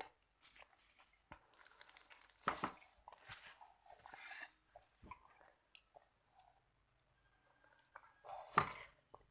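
A young child eating spicy Samyang instant noodles: scattered chewing and slurping noises, with a louder burst near the end.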